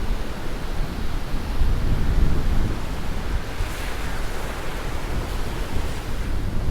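Sea surf washing in steadily against a rocky shore, with wind buffeting the microphone in a low, fluttering rumble.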